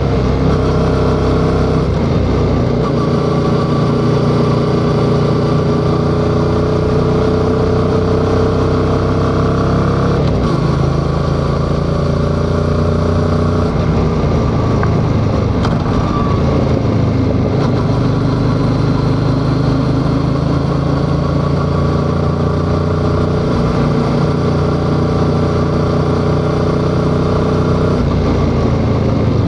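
Yamaha XSR700's parallel-twin engine running under way on the road. Its note climbs slowly, breaks off suddenly about ten seconds in, falls away a few seconds later, and then holds steady.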